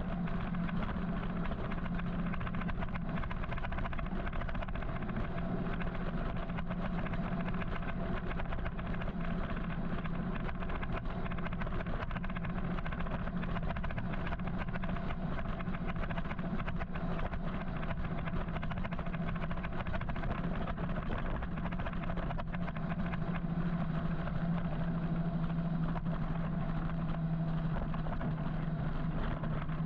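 Steady riding noise from an electric motorcycle moving through city traffic: wind and road rumble with a steady low hum that grows stronger near the end.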